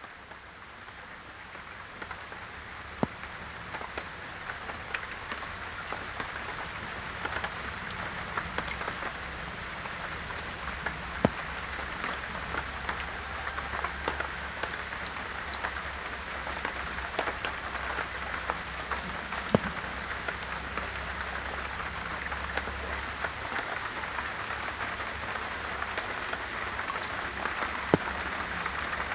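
Steady rain falling, with scattered louder drops, fading in gradually over the first several seconds.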